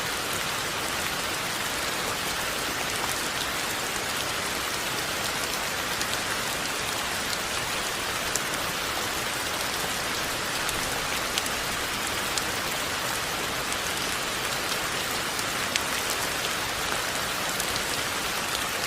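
Steady rain falling, an even hiss with a few scattered sharper ticks of single drops landing.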